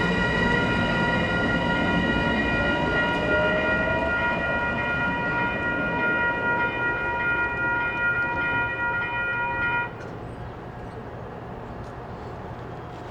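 Metro-North P32AC-DM diesel locomotive's multi-chime air horn held in one long chord for about ten seconds, then cut off sharply. Under it, the train's rumble continues as it passes.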